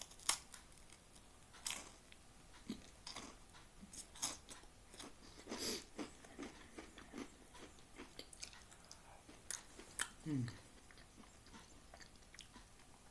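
Close-up crunching and chewing of knäckebröd, Swedish crispbread. There is a sharp bite right at the start, then irregular crisp crunches as it is chewed.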